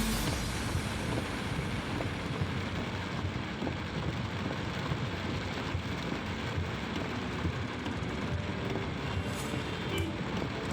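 Road traffic creeping along in a jam on a rain-wet highway: a steady, even wash of engine and tyre noise.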